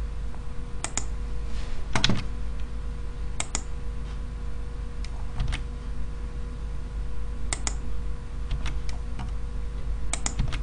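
Scattered computer keystrokes and clicks, irregular and a second or more apart, as numbers are entered into a spreadsheet, over a steady low hum.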